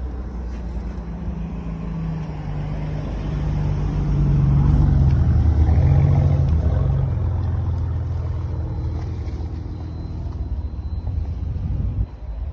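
A vehicle engine running with a low rumble, growing louder about a third of the way in and easing off again after the middle.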